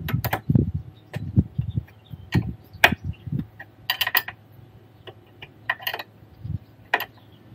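Hand tools clinking and knocking on metal: a wrench and socket being set on the nut of a sway bar end link, with scattered irregular clicks and a few dull thumps.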